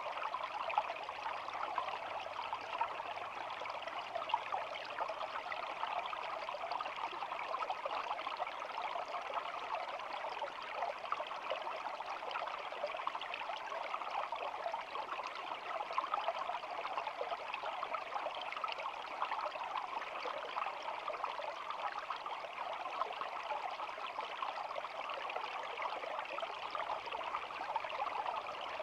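A shallow stream flowing steadily: continuous babbling water with fine, flickering splashes.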